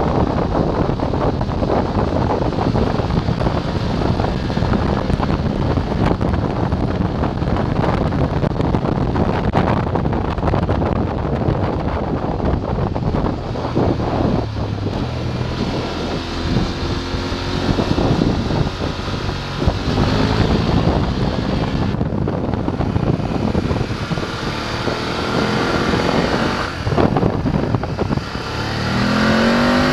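BMW F 850 GS's Chinese-built 853 cc parallel-twin engine running under way, mixed with wind rushing over the microphone. In the second half the engine pitch rises several times as the bike accelerates, with the clearest rise near the end.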